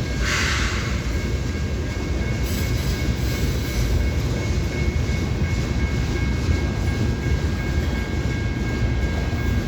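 Freight train moving on the rails, a steady low rumble with two thin high tones held throughout. A short hiss comes just after the start.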